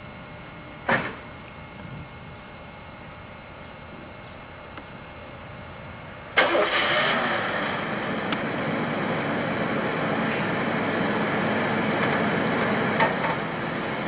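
A short thump about a second in, then a car engine starting about six seconds in and running steadily until it cuts off.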